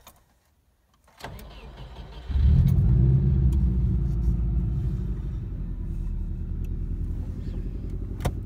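Subaru Impreza GF8 wagon's flat-four engine starting: a short crank about a second in, catching at about two seconds, then running at a fast idle that slowly eases down, heard from inside the cabin.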